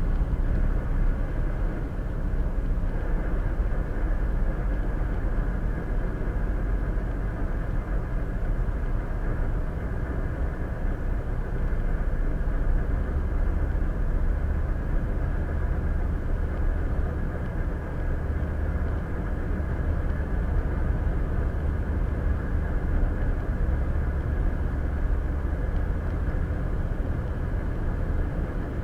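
Steady road and engine noise of a car cruising at highway speed, heard from inside the cabin: an even low rumble with no change through the stretch.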